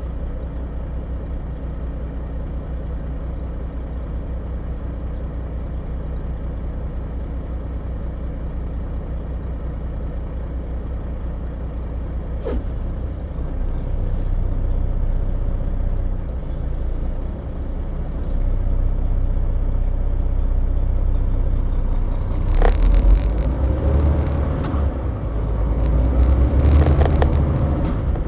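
Semi truck's diesel engine and road noise in a steady low drone that grows louder about halfway through and again near the end, as the truck gathers speed. There is a single sharp click around the middle and a few louder rattling knocks near the end.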